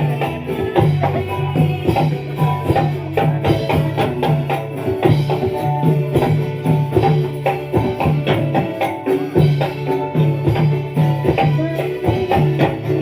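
Live dolalak dance music, instrumental: frame drums and jingles keep a steady, busy rhythm under a sustained melody.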